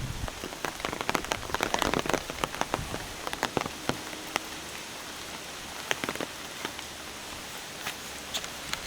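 Steady rain with many sharp, close raindrop ticks, thickest in the first few seconds.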